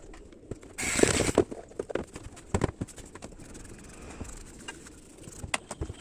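Workbench handling noises as a powered bookshelf speaker is put back together: scattered knocks and clicks, with a short louder scraping or rustling burst about a second in.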